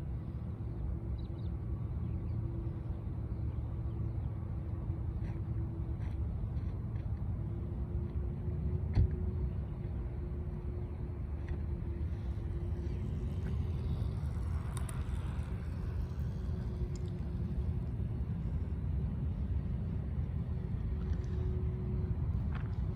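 Jet airliners taxiing at a distance: a steady low rumble with a held engine hum, swelling a little midway, and a single sharp click about nine seconds in.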